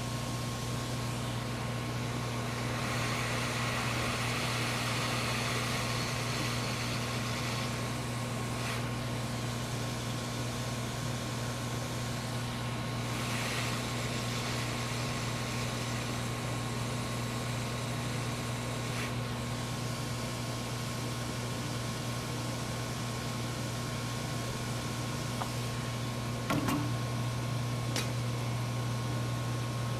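Steady electrical hum and fan noise from repair-bench equipment, with a thin high whine over it. The hiss swells a couple of times, and there is a single short knock near the end.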